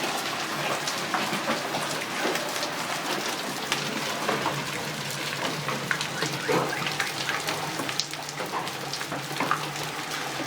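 Hail falling and striking surfaces: a dense, continuous spray of many small, irregular impacts.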